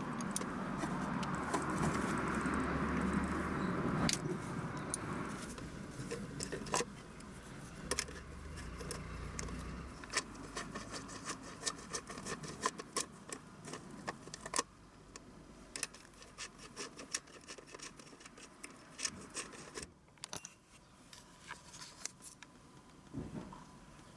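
Scattered light metallic clicks, clinks and jingles, like keys or small hand tools being handled. A louder steady rushing noise with a low hum fills the first few seconds and fades out about five seconds in.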